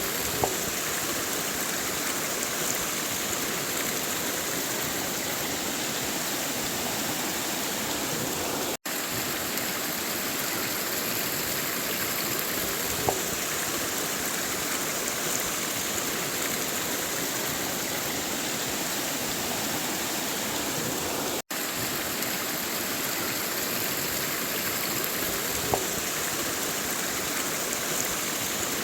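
River water flowing, a steady, even rush with a few small clicks. The sound drops out for an instant twice.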